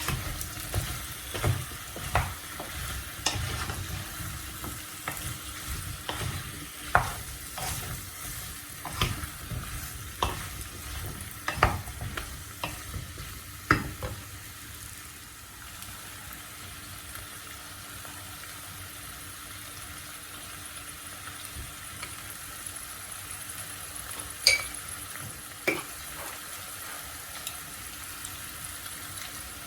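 Food sizzling in a frying pan while a utensil stirs it, clicking and scraping against the pan. The clicks are frequent for the first half; after that the sizzling runs steadily, with two sharp taps near the end.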